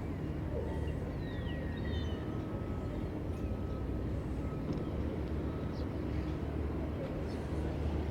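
A steady low engine hum, with a few faint high chirps over it.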